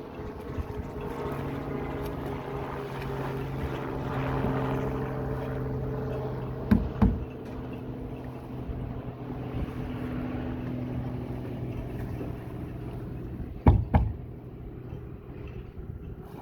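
Motorboat engine running at a steady pitch over water and wind noise, with two brief pairs of low thumps, about seven and fourteen seconds in.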